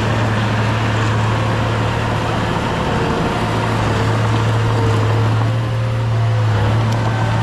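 Diesel engine of heavy earthmoving equipment running steadily, a strong low drone over a noisy clatter with no change in engine speed.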